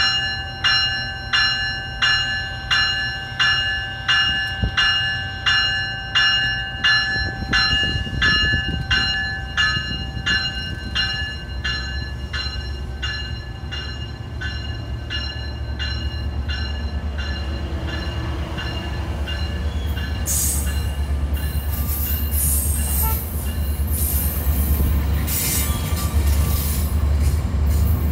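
A bell ringing about one and a half times a second fades out after about ten seconds as a Metrolink commuter train pulls away. The train's low rumble builds under it, and from about twenty seconds in there is louder wheel-on-rail noise, squeal and rattle as the bilevel cars pass faster.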